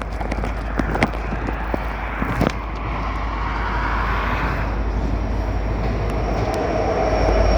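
Freight train cars rolling past on the tracks, a steady rumbling noise that slowly grows louder, with a few short knocks in the first couple of seconds.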